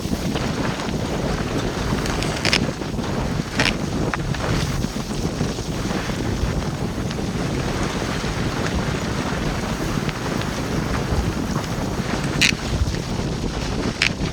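Strong wind buffeting the microphone on a sailboat heeling hard in rough water, with waves washing against the hull. A few brief sharp hits stand out, about two and a half seconds in, a second later, and twice near the end.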